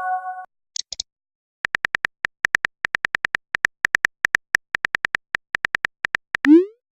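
Phone texting sound effects: a short chime ends right at the start, then a run of rapid, evenly spaced keyboard clicks for about four seconds, finished by a short rising swoosh of a message being sent.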